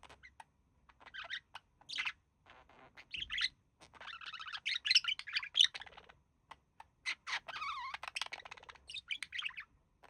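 Pet budgies chattering: bursts of chirps and warbling, busiest in the middle and near the end, stopping just before the close.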